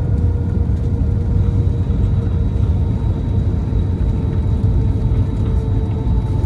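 Cabin noise of an Airbus A319 rolling on the ground after landing: a steady low rumble with a faint steady whine over it.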